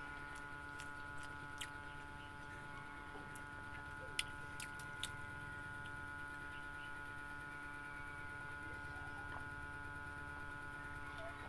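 Quiet chewing and mouth clicks from a person eating with her hands, close on a clip-on microphone, over a steady electrical hum. A few sharp clicks stand out, the loudest about four seconds in.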